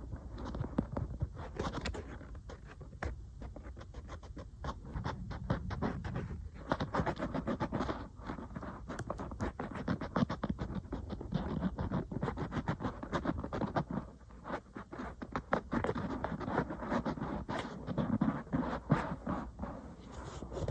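Fingernails tapping and scratching on an iPad, in quick, irregular runs of sharp taps mixed with scratching strokes.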